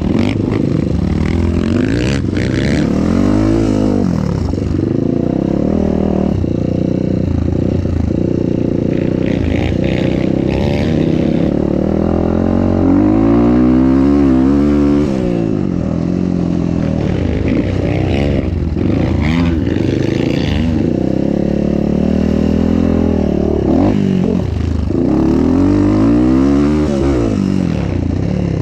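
Motorcycle engine revving up and falling back again and again as it is ridden around a dirt motocross track, with the loudest swells about every eleven seconds.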